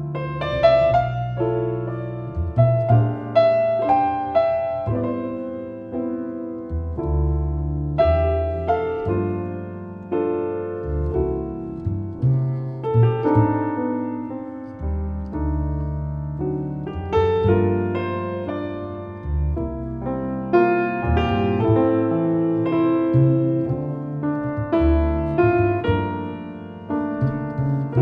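Acoustic piano and double bass playing together: piano chords and melody over long, held low bass notes.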